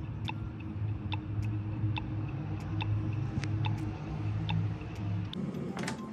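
A kitchen appliance humming steadily while a mechanical timer ticks evenly, about two to three ticks a second. The hum stops about five seconds in, and a few sharper clicks follow near the end.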